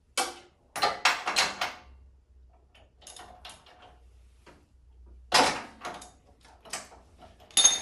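Cub Cadet snowblower being cranked to start, a series of short rasping pulls and clatters, the loudest about five and a half seconds in, with no engine catching: the engine will not start.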